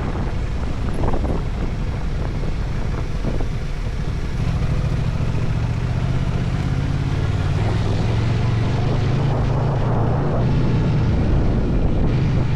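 Adventure motorcycle engine running while riding, with rushing road and wind noise. The engine note grows stronger about four and a half seconds in.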